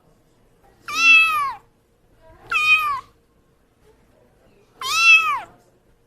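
A cat meowing three times, with short pauses between. Each meow rises then falls in pitch.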